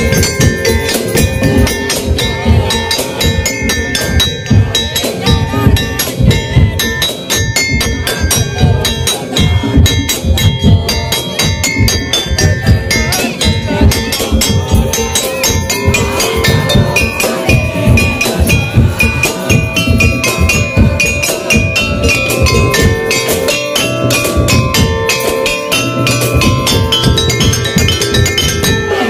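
Madurese daul (tong-tong) music: fast, dense beating of wooden slit drums and drums under a ringing melody of gong-chime metallophones, loud and unbroken.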